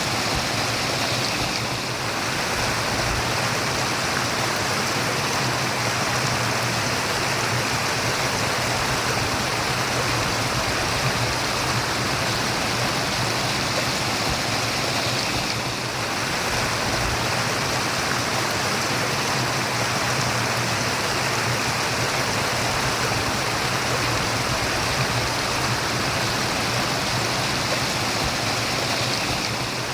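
Running water murmuring: a steady, even rush of flowing water.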